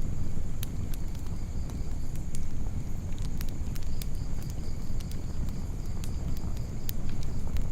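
Campfire crackling, with sharp irregular pops over a low steady rumble.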